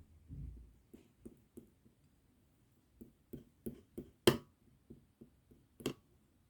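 Slime being squeezed and poked by hand, giving a string of about a dozen short sticky clicks and pops, the loudest about four seconds in.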